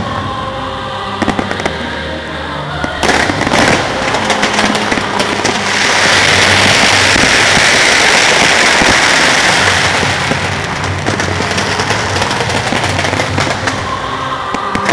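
Fireworks display: sharp bangs and pops begin about three seconds in, then thicken into a dense, continuous barrage through the middle before easing off toward the end.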